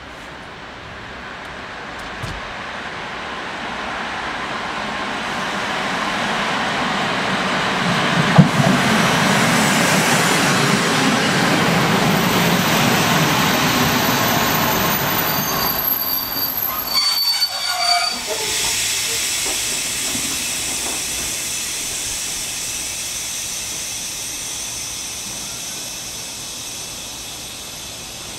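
Passenger train rumbling in along the platform, growing louder as it draws near and passes. About two-thirds of the way through, the brakes squeal briefly. After that a steady hiss remains as the train slows and the rumble fades.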